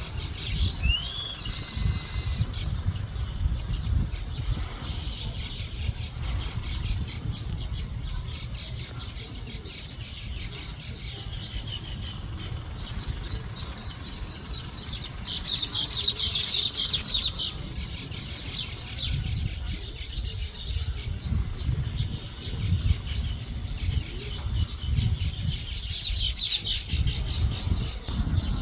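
Male Finn's weaver chirping in a dense, continuous run of high chirps at his nest, his display calls to females. The chirping is loudest a little past the middle, over a low rumble.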